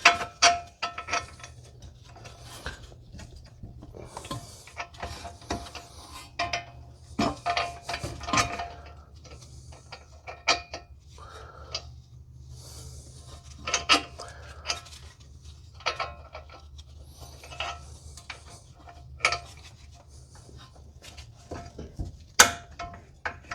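Irregular metallic clinks and clanks of hand tools and steel suspension parts being worked on a car's front suspension as the lower control arm is levered toward the ball joint. Some strikes ring briefly, and a low steady hum runs underneath.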